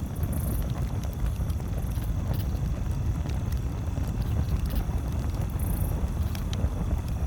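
Campfire crackling, with scattered sharp pops and snaps over a steady low rumble. A few brief high chirps come and go.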